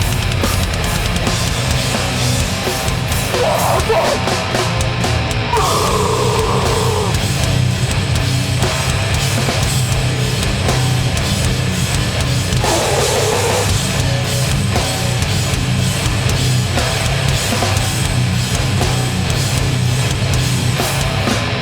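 Metallic hardcore band playing live at full volume: heavily distorted guitars, bass and pounding drums in one dense, continuous wall of sound, with a few brief higher-pitched passages cutting through.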